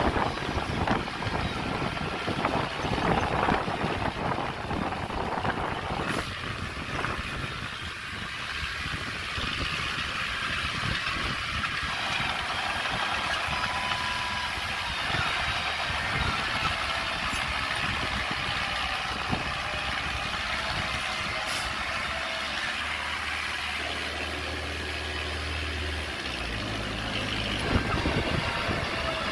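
Diesel engines of heavy earthmoving machinery running steadily, with scattered knocks.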